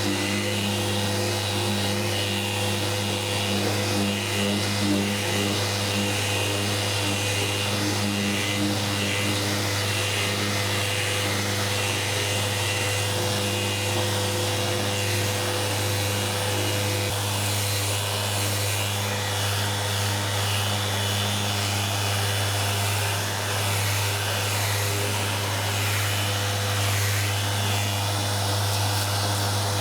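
Electric sander with dust extraction running steadily while sanding with 600-grit paper, a constant low hum under an even hiss.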